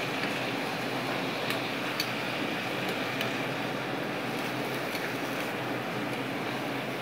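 Marinated salmon fillets sizzling steadily in a hot frying pan during searing, with a few light clicks of metal tongs against the pan as the fillets are turned.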